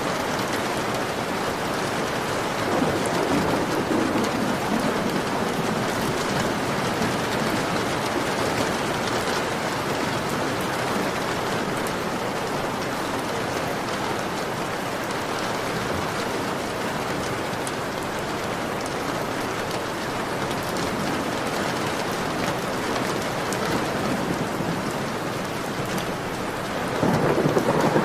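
Heavy rain beating steadily on a window pane. A low rumble of thunder swells about three seconds in and again near the end.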